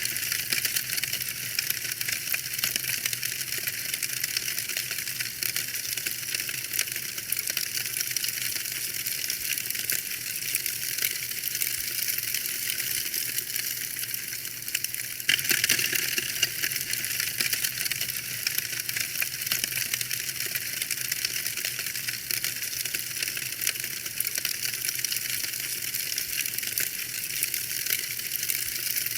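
Wood fire burning in a fireplace, crackling: a steady, dense patter of small sharp pops and snaps, with a louder flurry about fifteen seconds in.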